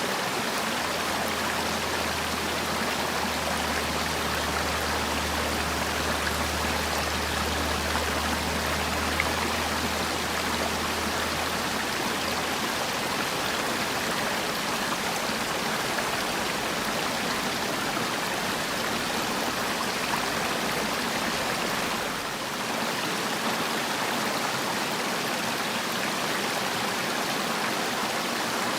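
Mountain stream flowing over rocks, a steady rush of running water. A low hum sits underneath for about the first twelve seconds.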